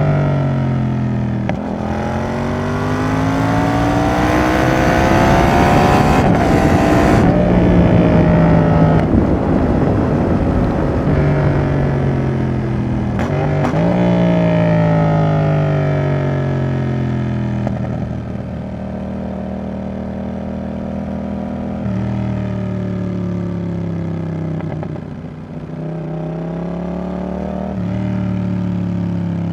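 Yamaha XSR700's 689 cc CP2 parallel-twin engine through a Roadsitalia double aftermarket exhaust, pulling hard with its pitch climbing until the throttle is shut about seven seconds in. It then runs on and slows with a falling pitch, and picks up again near the end, with wind rushing past throughout.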